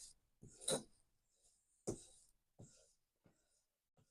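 A few short, faint rasping strokes on a leather strop charged with white jeweler's rouge and honing oil, about a second apart.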